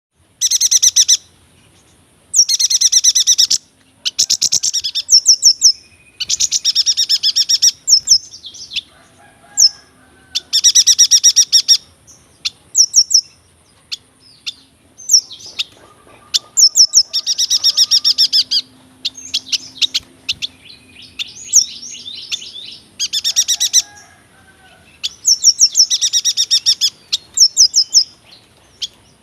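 Yuhina singing its long rolling song: repeated loud phrases of very rapid high-pitched trills, each about a second long, with short pauses and softer twittering notes between them.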